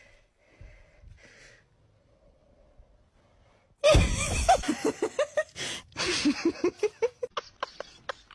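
Quiet at first; about four seconds in, a sudden loud thump with a rush of noise, then a voice in rapid short bursts, each rising in pitch, like laughter.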